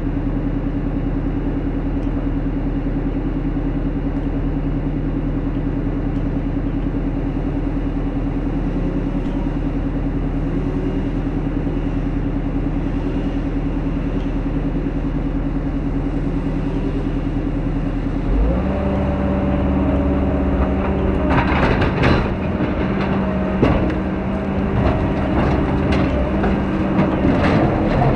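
Heavy diesel logging machine engine running steadily, then revving up about two-thirds of the way in, with repeated sharp knocks and cracks of the machine working near the end.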